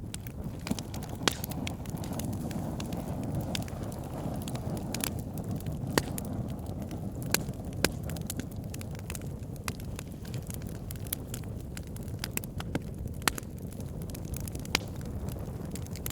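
Wood fire burning, with a steady low rumble and irregular sharp crackles and pops from the burning logs, a handful of louder snaps scattered through.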